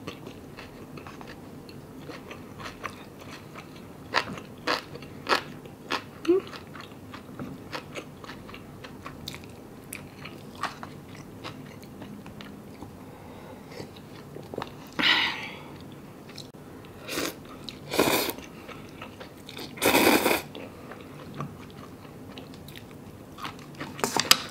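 Close-up chewing of a mouthful of kimbap (seaweed-wrapped rice roll), with many small wet mouth clicks. In the second half come a few louder sips of broth from a cup of instant noodle soup.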